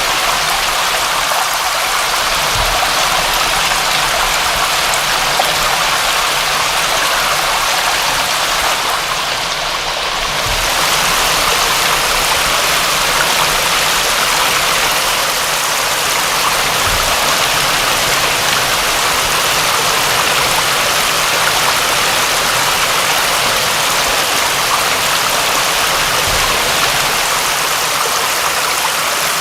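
Steady, heavy rain: an even, unbroken hiss of falling water, with a few faint low thuds.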